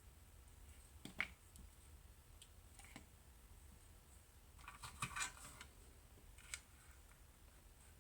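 Faint, scattered clicks of small plastic parts being handled as a power switch is fitted into the soldering station's case: a single click about a second in, a small cluster around the middle, and one more near the end.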